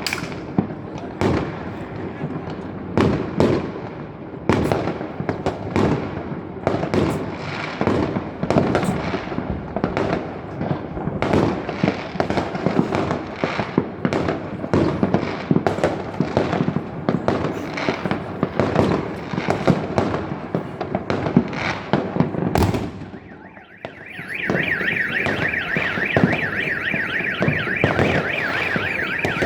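New Year fireworks salvo: a dense, rapid string of bangs and crackling bursts echoing for about twenty-three seconds. Then the barrage breaks off and an electronic alarm starts warbling rapidly, with only a few scattered bangs beneath it.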